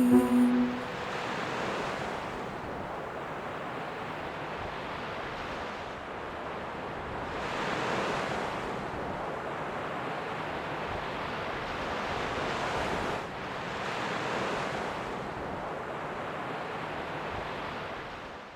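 Waves washing on a shore, a steady rushing surf that swells and eases a few times, fading out at the end.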